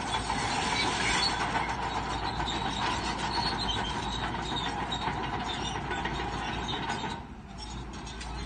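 Crawler bulldozer at work: a steady mechanical noise from its engine and tracks, dipping briefly about seven seconds in.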